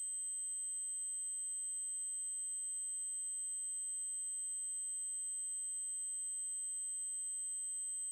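Synthesized 8192 Hz triangle-wave tone: a single very high-pitched electronic tone held steady without a break.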